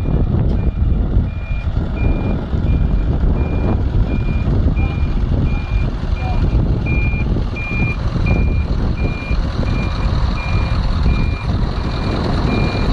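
A 500 hp Scania truck's diesel engine running with a steady low rumble while its reversing alarm beeps evenly, about three beeps every two seconds: the truck is backing up to couple to a trailer.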